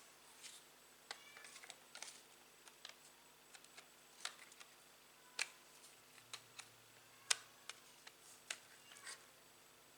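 Faint, irregular light clicks and taps of hands working on a laptop: small plastic and metal parts being handled during an SSD upgrade. The sharpest click comes about seven seconds in.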